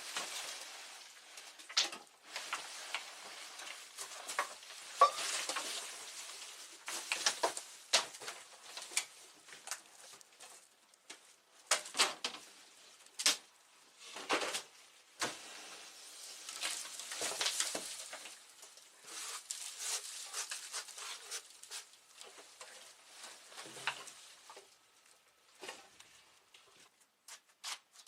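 Debris being hauled and moved by hand: irregular rustling and scraping with scattered sharp knocks and clatters, the loudest about 5 seconds in and between about 12 and 15 seconds in.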